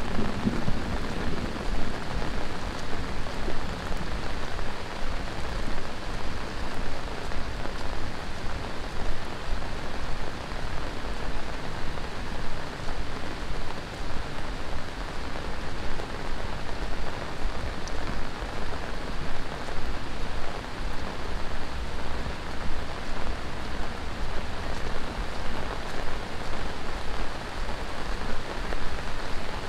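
Heavy tropical monsoon rain pouring steadily: a dense, even hiss of rain falling on surfaces all around.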